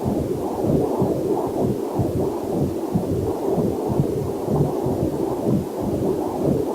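Heartbeat picked up by a fetal Doppler heart monitor: a rapid, even run of whooshing throbs. A faint waterfall hiss runs underneath.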